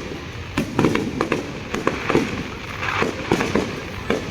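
Fireworks going off in a rapid, irregular series of sharp bangs and cracks.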